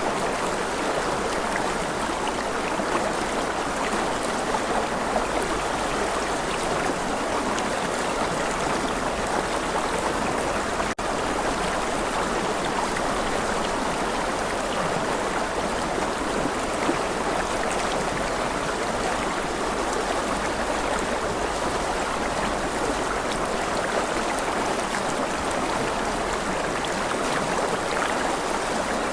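Stream water flowing and babbling steadily, with one momentary drop in level about eleven seconds in.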